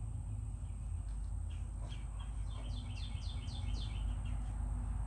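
A songbird singing a quick run of short, downward-sweeping chirps about two and a half seconds in, with a few fainter chirps before, over a steady low rumble.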